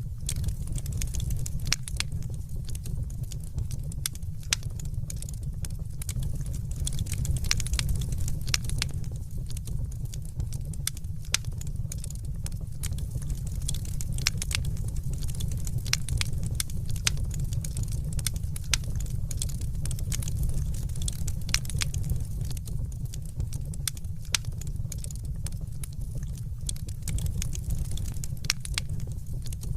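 Fire burning in a fireplace: a steady low rumble with many short, sharp crackles and pops.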